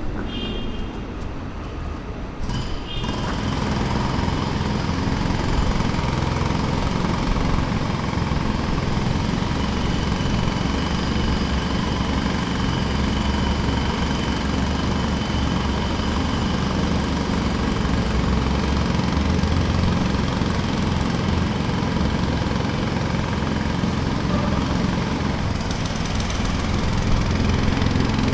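Jackhammer running continuously, a fast steady rattle over an engine-like drone, growing louder about three seconds in.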